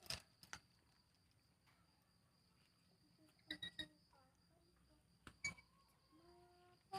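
A pair of lories making quiet sharp clicks and taps, with a few short squeaky calls near the end. A faint steady high tone runs underneath.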